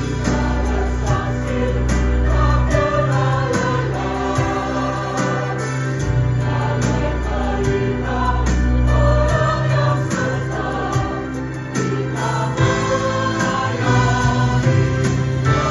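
Church choir singing a gospel song with band accompaniment: sustained bass notes and a steady beat under many voices.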